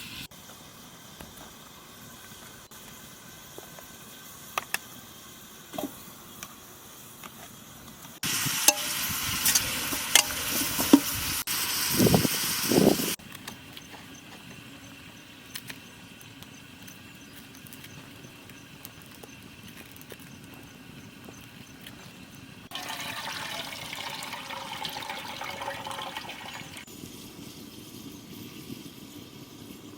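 Liquid poured into a cooking pot: a loud splashing pour of about five seconds that starts and stops abruptly, then a softer hissing stretch of about four seconds later on. Light clicks and taps in between.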